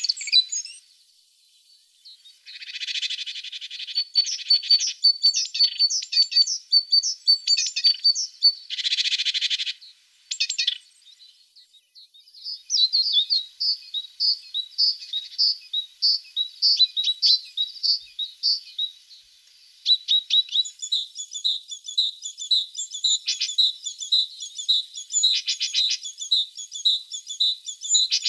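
Tits singing: runs of quick, high chirping notes, with a steady series of repeated notes at about two a second in the second half. Two short, harsh, hissy bursts come in the first half.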